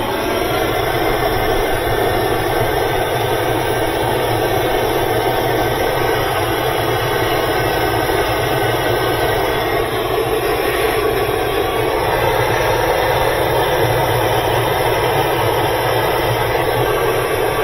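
Steady rushing of a heat tool running continuously, melting the 3M ScotchKote hot-melt patch compound.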